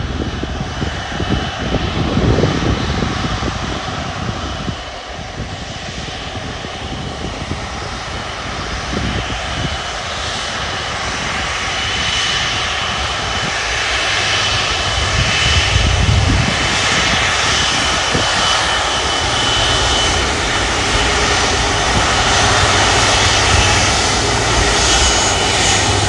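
F-35 fighter jet's single F135 turbofan engine at high thrust on takeoff, a loud booming, crackling rumble under a steady high whine. It grows louder through the middle and stays loud to the end.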